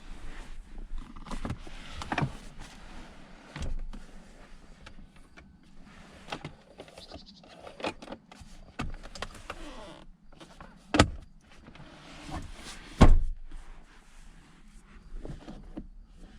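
Cabin fittings of a DS 9 being handled and operated: a string of clicks and knocks, with two louder knocks about eleven and thirteen seconds in.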